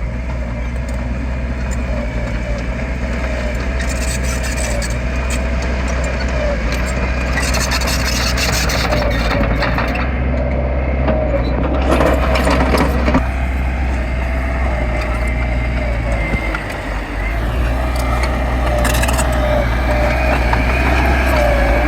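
Diesel engine of heavy earthmoving machinery running steadily under load, with a wavering mid-pitched drone. A harsher rush of noise comes in about eight seconds in and again around twelve seconds in.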